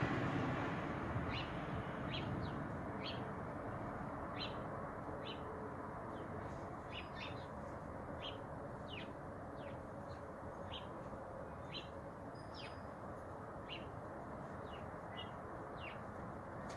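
Small birds chirping at the feeders, with short sharp chirps coming one or two a second over a steady background hiss.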